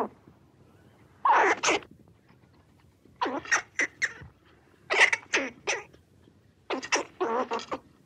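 Grey squirrel calls: short, rasping, squeaky notes in quick clusters of two to four, a new cluster every second or two.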